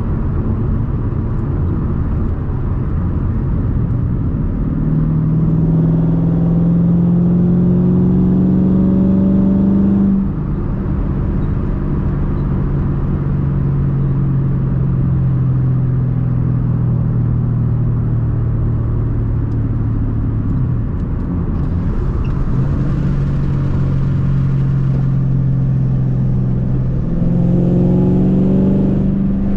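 Straight-piped 2010 Ford Mustang GT's 4.6-litre three-valve V8 on the road: the engine note climbs in pitch from about five to ten seconds in, drops suddenly, holds steady for a long stretch, then climbs again near the end.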